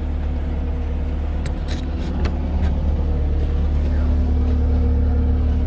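Diesel engine of heavy recovery equipment running steadily with a deep, even hum, a little louder in the second half. A few light metallic clicks come around two seconds in.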